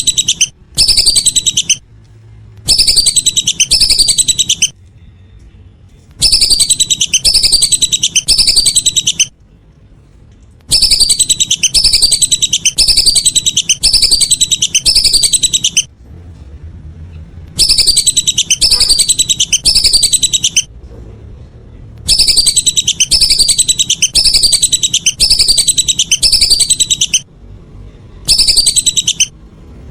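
Whistling ducks (belibis) calling: loud series of high, falling whistled notes, about two a second, in bouts of a few seconds separated by short pauses, with a low background rumble underneath.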